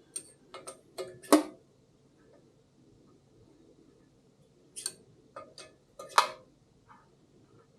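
Sharp metal clicks and clinks of small parts and hand tools being handled on a workbench, in two groups: four in the first second and a half, and four more a few seconds later.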